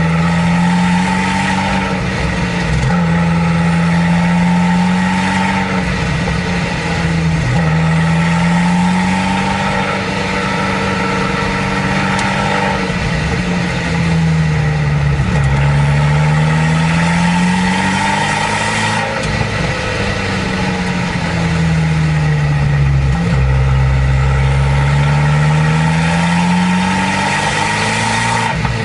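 Abarth 595 Competizione's 1.4-litre turbo four-cylinder with a Record Monza exhaust, running under way. The engine note falls and rises again several times as the car slows and picks up speed.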